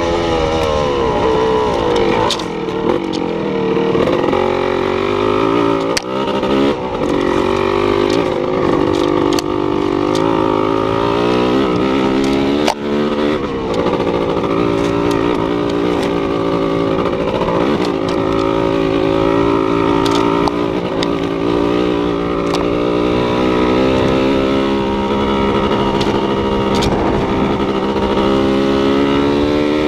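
A vehicle engine, likely a motorcycle, running continuously, its revs rising and falling as it is ridden, with a few scattered knocks and rattles.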